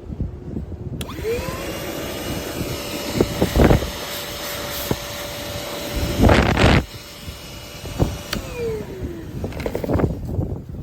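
LIGO 20V cordless shop vacuum switched on about a second in, its motor spinning up to a steady whine, with two brief louder rushes of air noise. It is switched off a little past eight seconds in, and the whine falls away as the motor winds down.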